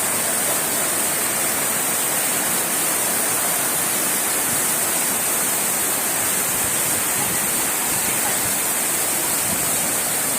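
Floodwater rushing and pouring: a steady, unbroken sound of fast-flowing water.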